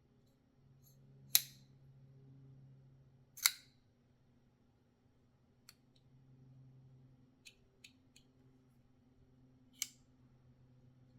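Shirogorov RKMP titanium framelock flipper knife being flipped open and closed: two loud, sharp metallic snaps about two seconds apart, then a few light clicks, and another snap near the end.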